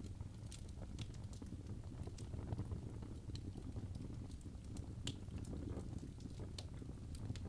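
Fire in a fireplace crackling: irregular sharp pops and snaps over a low, steady rumble of the flames.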